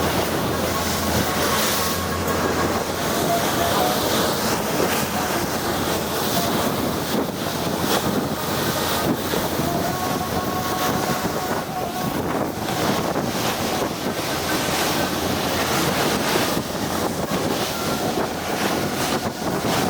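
Tour boat running at speed through choppy sea: a steady engine drone under rushing water and waves against the hull, with wind buffeting the microphone.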